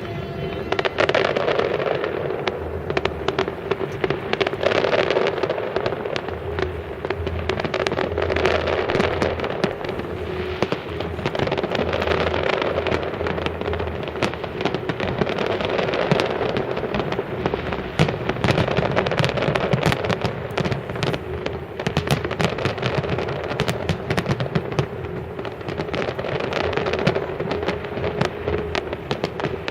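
Fireworks display going off continuously: rapid overlapping bangs and crackling, with a steady tone running underneath.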